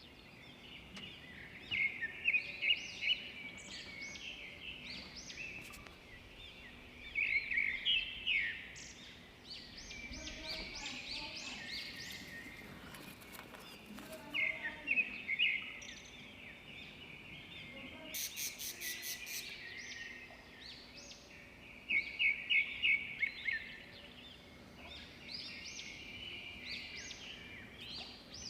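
Budgerigars chirping and chattering, with runs of rapid, louder chirps every few seconds.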